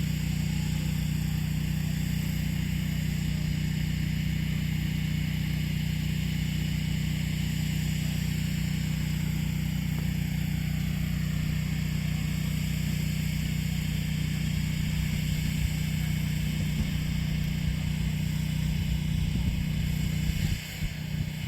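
An engine running steadily with a low, even hum that breaks up near the end.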